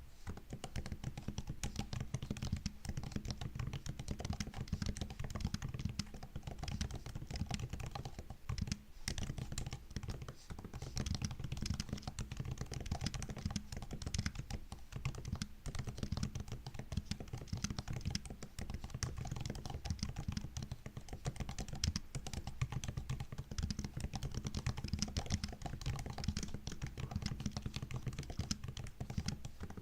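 Continuous typing on a MacBook keyboard: a dense, steady stream of key clicks, with brief pauses about 9 and 10 seconds in.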